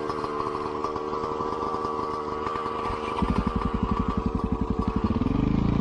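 Dirt bike engine running steadily, then about three seconds in a louder, pulsing exhaust note as the throttle opens, rising in pitch near the end.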